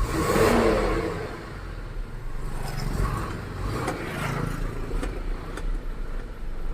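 Isuzu 6HK1 inline-six diesel engine idling steadily just after a one-crank start, with a louder swell about half a second in. It is running properly again, its earlier hard starting traced to two loose injector fuel lines that leaked and have now been tightened.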